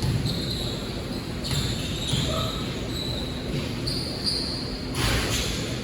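Basketball being bounced on a court, with short high squeaks of sneakers on the floor.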